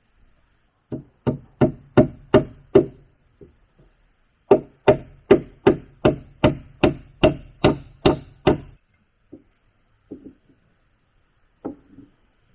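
Tool blows striking wood in a steady rhythm, a little over two a second: a run of five, a short pause, then about eleven more, followed by a few lighter knocks.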